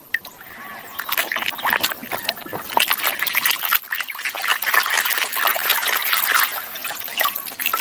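Water splashing and trickling, with an irregular patter of small clicks and knocks.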